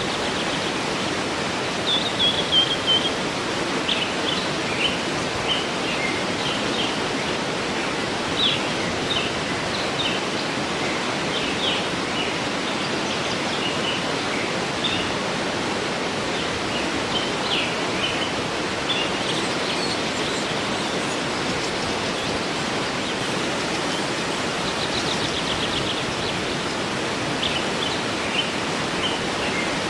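A waterfall's steady rush of falling water, with birds singing over it in short chirps and trills.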